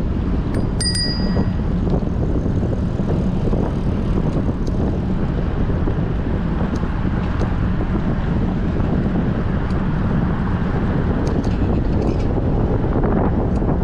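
Wind buffeting a bicycle-mounted action camera's microphone while riding in strong wind, a steady low rumble. A short high ring sounds about a second in.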